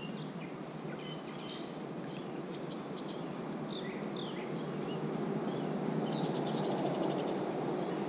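Wild birds chirping and calling: scattered short high notes and a couple of quick trills, over a steady background hiss.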